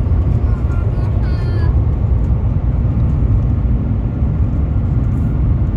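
Cabin noise of the Shanghai maglev train running at high speed: a steady, loud low rumble, with faint voices about a second in.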